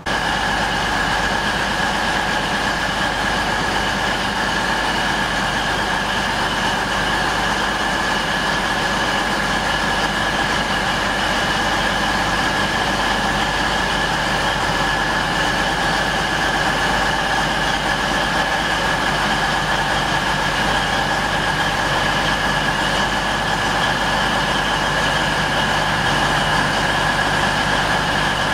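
East Midlands Trains diesel passenger train standing at the platform with its engines idling: a loud, even drone with a steady high-pitched whine over it, a low hum joining about two-thirds of the way in.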